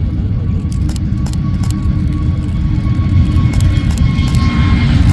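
Airbus A320neo's Pratt & Whitney geared turbofan engines at takeoff power, a deep steady rumble with a faint high whine over it, growing slowly louder.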